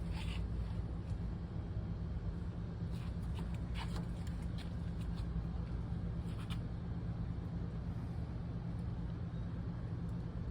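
Steady low mechanical hum of a running motor, with a few faint light clicks around four and six and a half seconds in.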